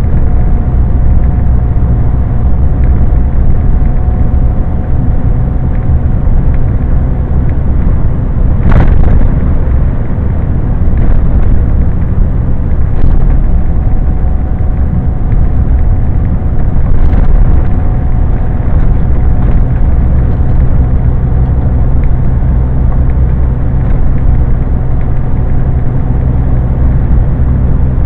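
Scania lorry cab while driving: a steady low engine drone and road rumble. There is a sharp click about nine seconds in and a few fainter ticks later.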